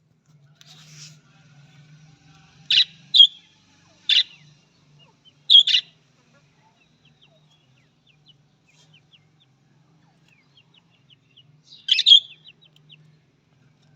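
Budgerigars calling: a few loud, sharp chirps and squawks about three, four and six seconds in and again near twelve seconds, with soft rapid twittering chatter in between.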